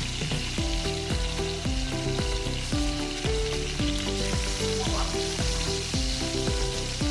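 Aromatics sautéing in hot oil in a pan, a steady sizzle with some stirring, under background music with a melody and bass line.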